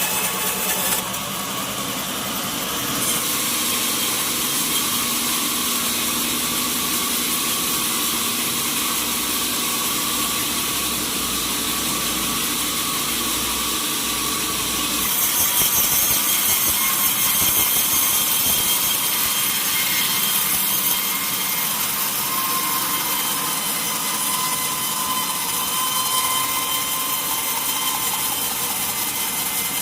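Sawmill saw cutting lengthwise through a mahogany log, a continuous hissing cut over the running machine, louder for several seconds around the middle.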